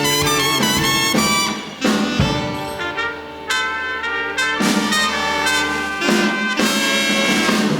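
Big band horn section (trumpets, trombones and saxophones) with rhythm section playing the instrumental ending of a swing tune: short accented chords with brief breaks, then long held chords.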